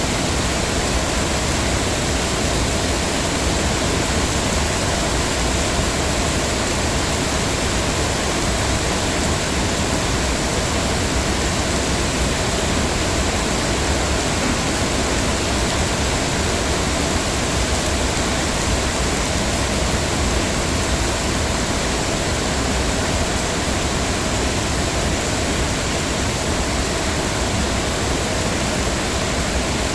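Heavy rain falling steadily, a dense, even rush of noise with no let-up.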